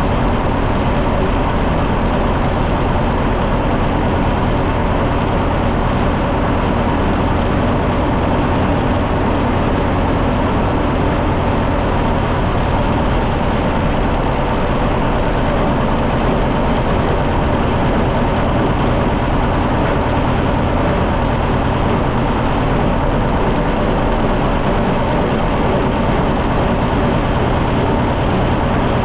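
John Deere 730 tractor's two-cylinder engine running at a steady, even speed, loud and unchanging throughout.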